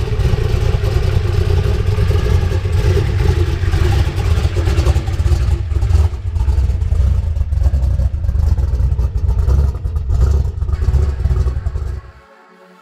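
Twin-turbocharged Windsor V8 of a Fox-body Mustang notchback running loudly with a heavy low rumble. It cuts off abruptly near the end.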